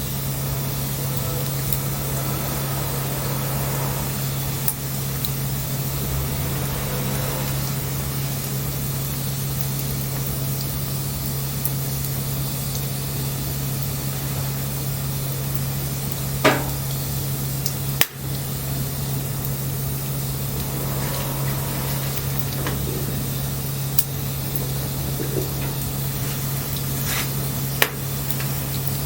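Wood bonfire burning with a steady hiss and about five sharp crackling pops, the loudest about sixteen seconds in, over a steady low hum.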